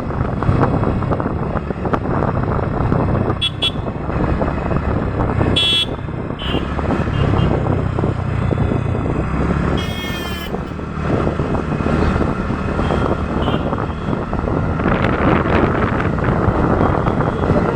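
Road traffic and wind noise heard while riding a scooter through town, a steady rushing din with several short vehicle horn toots: one about three and a half seconds in, one about six seconds in, and a brighter one about ten seconds in.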